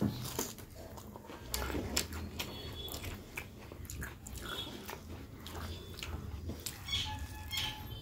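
Chewing and wet lip-smacking of a person eating rice and fish curry by hand, in irregular little clicks, with fingers squishing and mixing rice on a steel plate.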